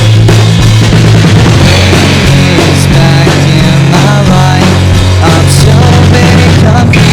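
Loud rock music with drum kit and distorted guitars: an instrumental passage between sung lines.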